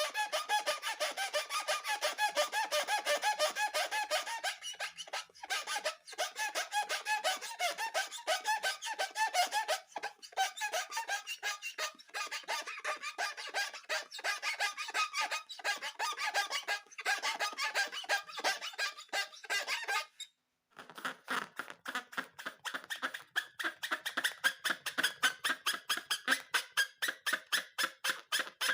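Rubber balloons squeaking in a fast, even run of short squeaks, several a second. The squeaks stop briefly about two thirds of the way in, then start again with a slightly different tone.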